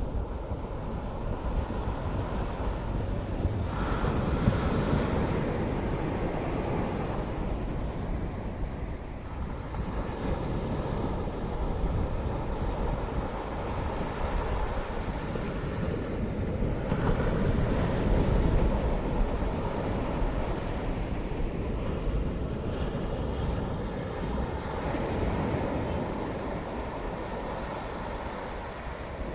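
Wind rushing over the microphone: a steady rumbling noise that swells a few times, strongest around four seconds in and again at about seventeen to nineteen seconds.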